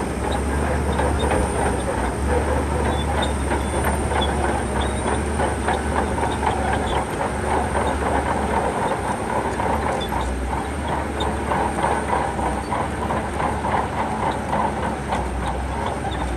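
Shantui bulldozer's diesel engine running steadily, with a continuous clatter of its steel tracks.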